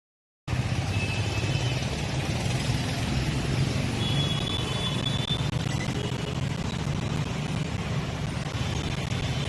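Street traffic: a steady low engine rumble of vehicles, starting after a moment of dead silence, with a few brief faint high-pitched tones near the middle.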